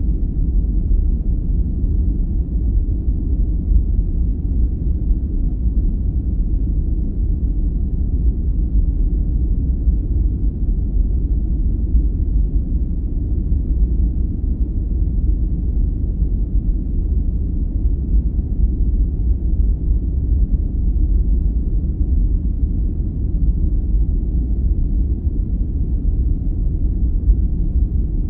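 Steady sleep-aid background noise, deep and muffled, with almost no high end. It holds even throughout, without any tone or event.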